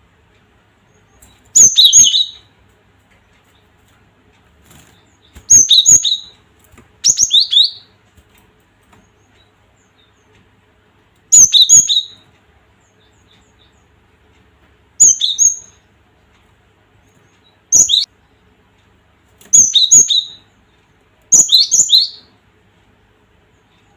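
Cinereous tit (gelatik batu) calling: about eight short bursts of two or three quick, high, sharp notes, repeated every few seconds with quiet gaps between.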